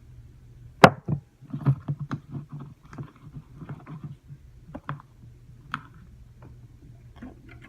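Slime mixture being stirred in a bowl: irregular knocks and sticky clicks, the loudest about a second in, over a steady low hum.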